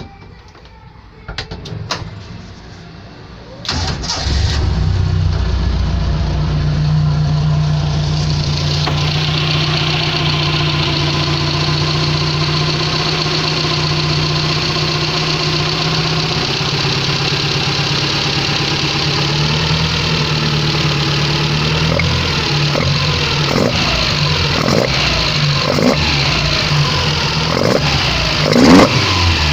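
Mitsubishi 4G32 inline-four engine cranked and catching about four seconds in, then idling steadily. Near the end the revs briefly rise.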